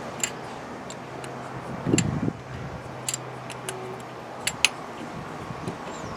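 Scattered sharp clicks and taps of hand tools and metal parts being handled during work on an engine, with a louder dull knock about two seconds in.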